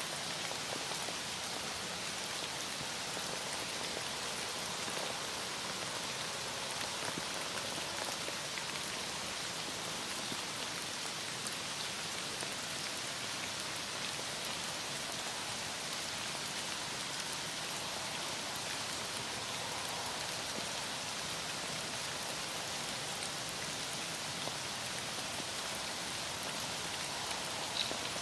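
Heavy rain falling steadily, an even hiss of rain with the patter of drops on surfaces.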